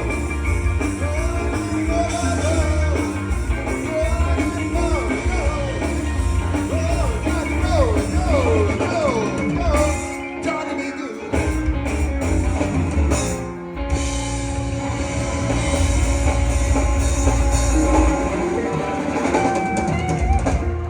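Live band playing a blues: drum kit, electric guitar and a singing voice, with bending melodic lines in the first half and two brief drops in the drums around ten and fourteen seconds in.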